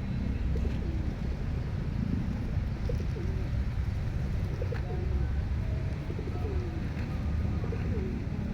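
Several pigeons cooing, short falling coos repeating about once a second, over a steady low rumble.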